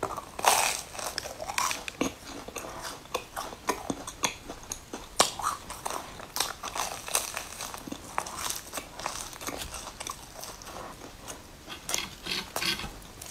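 A person biting into and chewing a deep-fried red bean paste bun: the crisp fried crust crunches with many sharp crackles, the loudest about half a second in and about five seconds in, with chewing between the bites.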